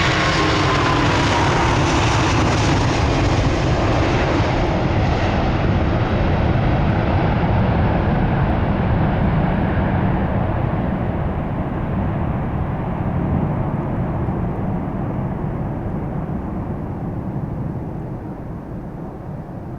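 Jet airliner passing and flying away: a whine that falls in pitch just at the start, then a steady engine roar that grows duller and slowly fades.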